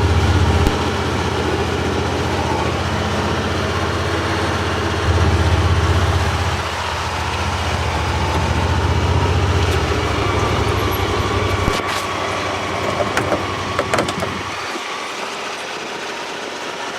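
Vehicle engine running as it is driven, its low rumble shifting in level a few times; the rumble stops about fifteen seconds in, with a few clicks just before.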